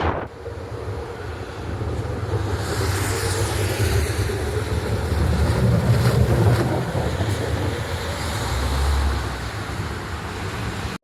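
Heavy plow truck's engine and tyres passing, a low rumble that swells to its loudest about six seconds in and then fades, with wind buffeting the microphone.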